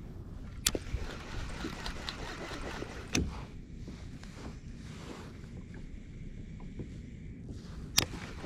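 A fishing kayak on the water, with water lapping and sloshing around the hull. Three sharp knocks come on the kayak, one about a second in, one about three seconds in and one near the end.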